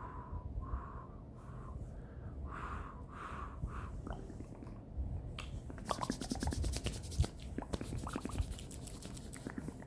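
Close-miked ASMR mouth sounds. Soft wet mouth noises come about twice a second, then from about halfway a dense run of wet clicks and crackles that grows louder.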